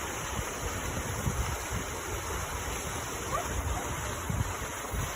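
Wind rumbling and buffeting on the microphone over a steady rushing outdoor noise.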